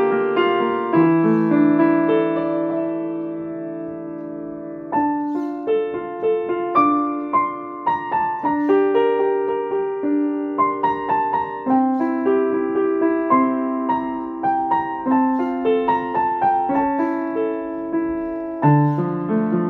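Piano playing a slow, gentle piece. A chord is held and dies away over several seconds, then the melody picks up again about five seconds in with notes struck over sustained lower notes.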